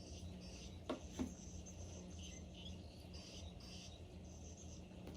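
Quiet room with a steady low hum and faint, scattered high chirping, broken by two light clicks about a second in.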